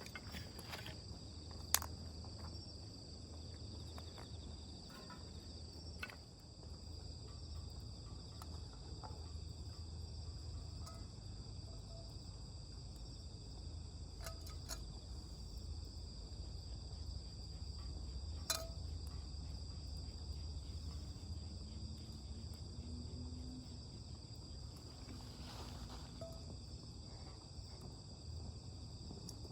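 A steady chorus of chirping insects, with a few sharp pops from a small wood campfire crackling, the loudest about two seconds in and again past halfway, over a low rumble.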